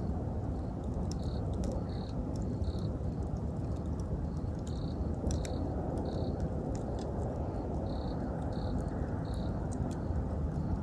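Wood fire crackling with scattered sharp pops over a steady low rumble, while an autumn insect chirps in short high notes, about one every 0.7 seconds, in groups of two or three.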